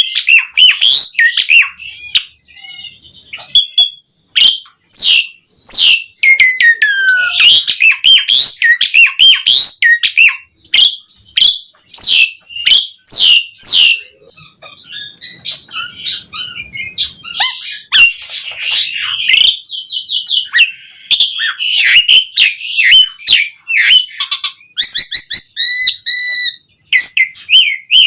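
Asian pied starling (jalak suren) singing vigorously: a long, varied run of whistles, sweeping notes and harsh chattering phrases, with a short lull about halfway through and a stretch of fast repeated notes near the end.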